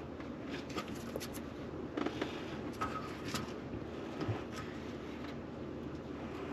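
Scattered light clicks and scrapes of a garbage disposal being twisted onto its sink mounting ring to lock it in place.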